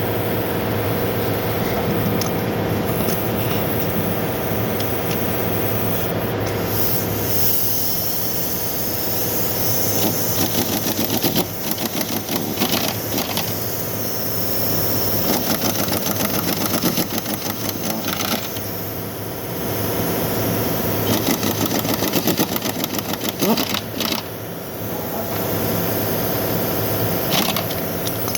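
Car engine running steadily at idle. From about ten seconds in, a rapid mechanical rattle comes and goes several times.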